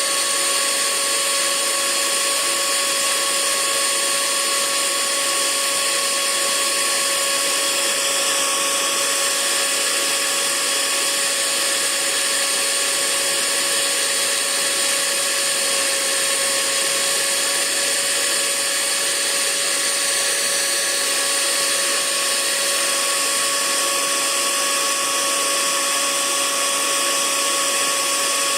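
Hair dryer running continuously: a steady hiss of rushing air with a constant motor whine, unchanging throughout.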